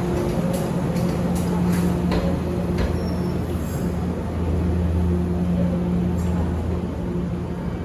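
Electric train's steady low hum, with a few light clicks in the first few seconds.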